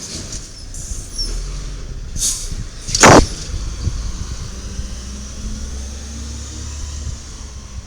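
Diesel engine of a 1995 Peterbilt 310 automated side-loader garbage truck running with a steady low rumble. About three seconds in comes one very loud, short burst of noise, with a fainter hiss about a second before it.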